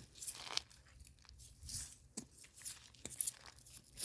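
Rustling and crunching of dry leaf litter and soil, a string of short scrapes and snaps, as termite mushrooms are pulled from the ground by hand.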